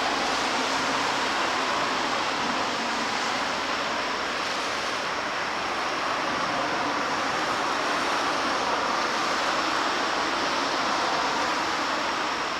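Steady rushing noise with no clear pitch and no sudden sounds.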